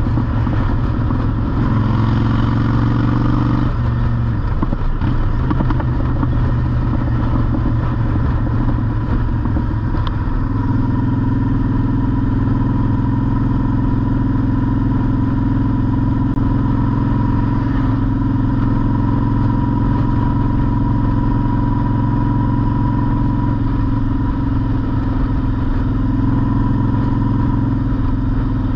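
Honda Shadow V-twin motorcycle engine running under way. The engine note shifts about four seconds in and again about ten seconds in, then holds steady.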